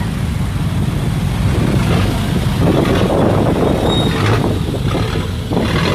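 Vehicle engines running, a loud, low, rough rumble.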